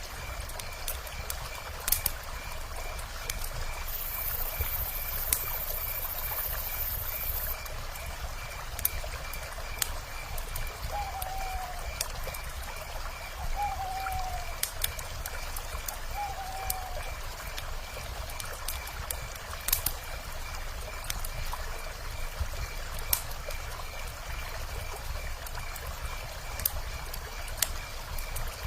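Steady rush of a river, with sharp crackles and pops from a wood fire scattered throughout. Midway, three short falling calls from an owl, a couple of seconds apart.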